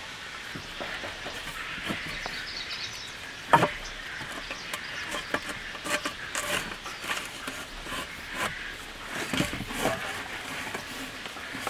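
Rain falling on a tent: a steady hiss with irregular taps and knocks scattered through it, the loudest a single sharp knock about three and a half seconds in.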